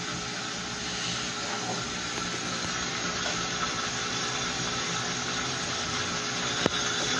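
Electrolux LQ11 washing machine running through a wash cycle, a steady mechanical whir mixed with rushing water. A single sharp click near the end.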